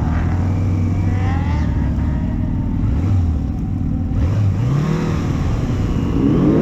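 Drag-racing motorcycle engines running steadily at low revs, then revving with a rising pitch from about four and a half seconds in.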